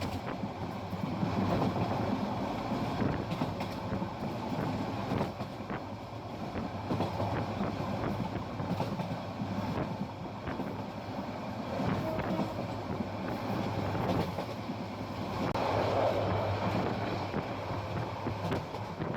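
Parabat Express passenger train running along the track, heard from on board: a steady rumble of the coaches with many irregular sharp clicks and knocks from the wheels over the rails.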